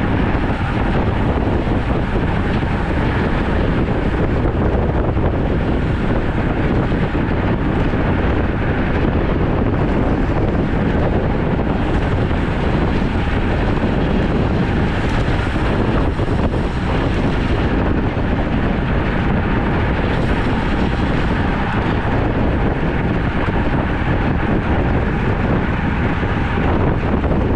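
Steady wind rushing over the microphone of a camera carried on a road bicycle while riding.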